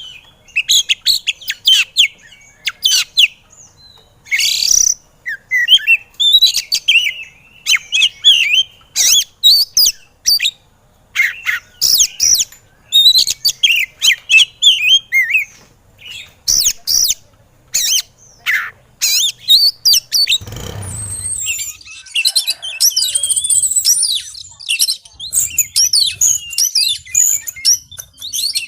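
Oriental magpie-robin (kacer) in agitated, aggressive voice: a rapid string of sharp, loud, high calls and chirps, then, about three-quarters through, a continuous fast warbling song. A brief low rumble comes just before the song starts.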